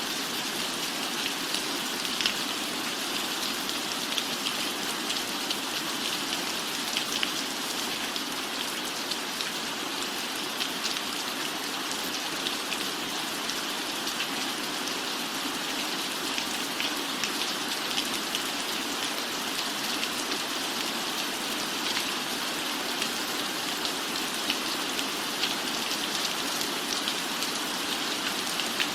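Steady rain falling on a roof, a constant hiss dotted with scattered sharp drop ticks.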